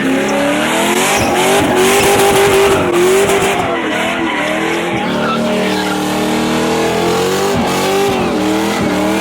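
Car engine revving up and down over and over, with tyres squealing and skidding as a car slides around in a burnout.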